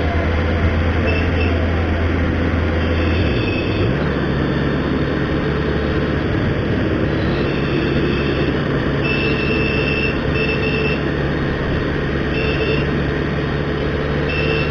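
Motorcycle engine running while riding through traffic, with wind rushing past. The engine note drops about three and a half seconds in and climbs again, as at a gear change, and short horn toots sound several times.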